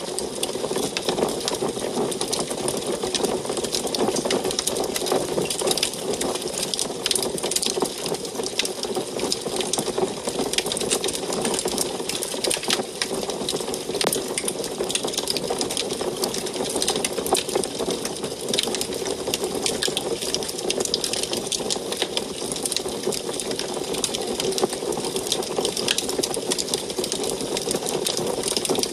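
Wood fire burning in an antique wood stove, crackling steadily with many small, rapid pops over a constant rush.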